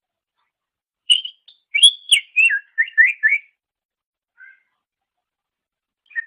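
Greater green leafbird (cucak ijo) singing: after about a second of silence, a quick phrase of loud whistled notes, several sliding up and down, lasting about two seconds. A faint lone note follows, and a new phrase begins near the end.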